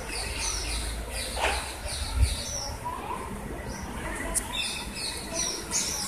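Small birds chirping, repeated short high calls several times a second, over a low rumble.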